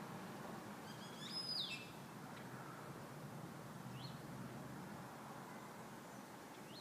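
A bird calling: one louder, complex high call with quick rises and falls about a second and a half in, then single short high chirps near four seconds and again near the end, over faint steady background noise.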